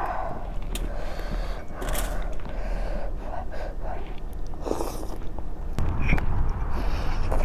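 Close-miked eating: a person chewing and biting food, with audible breaths and sniffs, and small clicks of mouth and utensils.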